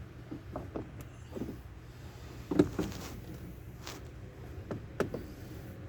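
Hands and tools working on a car's interior door panel, making scattered knocks and clicks of plastic and metal, with one louder knock about two and a half seconds in.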